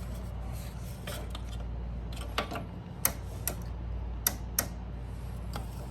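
A handful of light, sharp clicks and taps, scattered irregularly, over a steady low hum.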